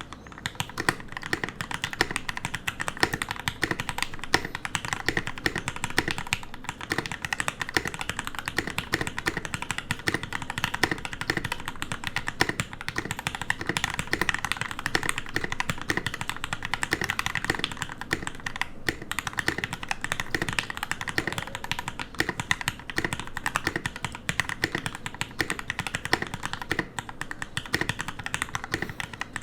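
Continuous fast typing on a custom 60% mechanical keyboard with lubed and filmed Gateron Yellow linear switches in an aluminium plate and plastic case: a dense, steady run of key clacks and bottom-outs with the occasional heavier stabilised key.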